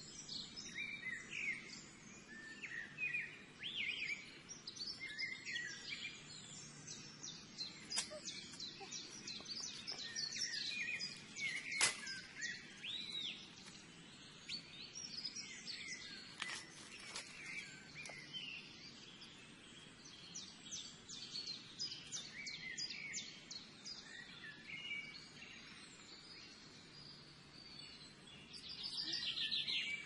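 Wild birds chirping and trilling, many short overlapping calls and rapid trills, with a single sharp click near the middle.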